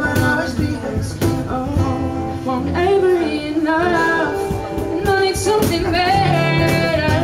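Live acoustic band playing: a voice singing a melody over strummed acoustic guitar, with steady cajon hits keeping the beat.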